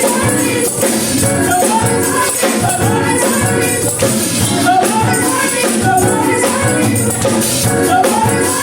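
Gospel praise music: voices singing over a steady rhythmic accompaniment with a shaking tambourine.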